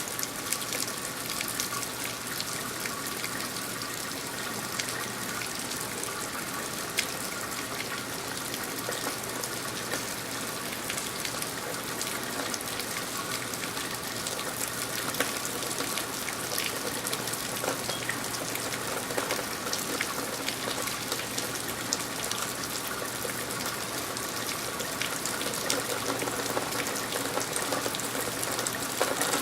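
Steady rain falling: an even hiss scattered with small drop ticks, over a low steady hum.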